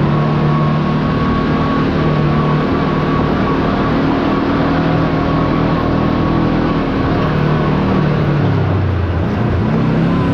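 Side-by-side UTV engine running steadily under way, with a thin high whine over it in the first few seconds; the engine note drops about eight seconds in as it slows.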